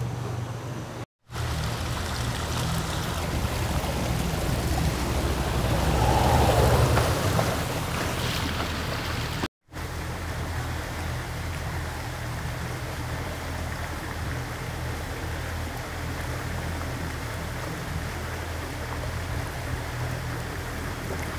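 Motorboat engine running steadily under way, with water rushing past the hull; the rush swells louder around six to seven seconds in. The sound cuts out briefly twice.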